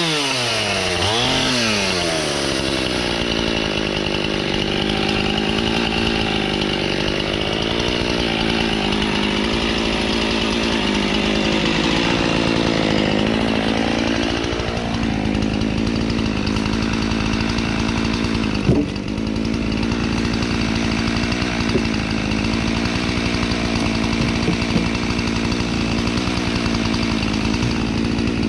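Husqvarna two-stroke chainsaw running at high revs while bucking dry oak logs into firewood rounds. The engine pitch swings up and down at the start, then holds fairly steady with a brief dip about halfway. A sharp knock comes about two-thirds of the way in.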